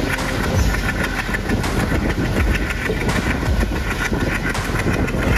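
Passenger train running on the line, its wheels clattering over the rails with the low rumble of its twin ALCO diesel locomotives underneath.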